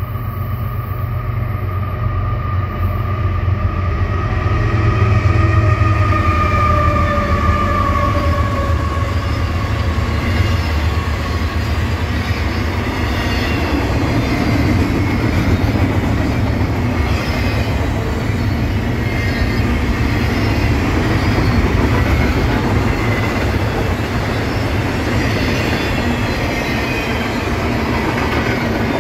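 A diesel freight locomotive approaches and passes, its low engine rumble loudest about five seconds in, with a whine that drops in pitch as it goes by. Then a double-stack intermodal container train rolls past in a steady rumble and clatter of wheels on rail.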